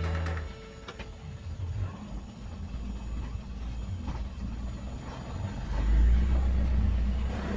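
Dump truck's diesel engine running while driving, a low rumble that swells louder for about a second and a half near the end.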